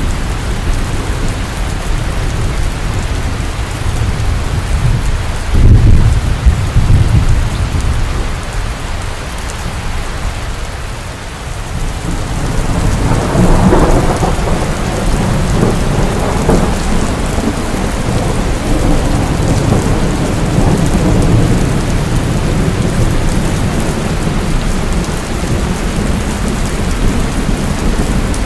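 Steady rain with thunder. There is a loud low rumble about six seconds in, and another rolling peal of thunder from about thirteen seconds that trails off over the following seconds.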